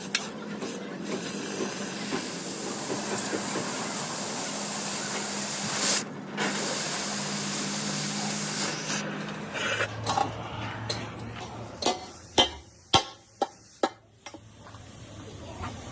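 A steady hiss, like a jet of compressed air, that breaks off briefly about six seconds in and stops at about nine seconds. Several sharp knocks follow near the end.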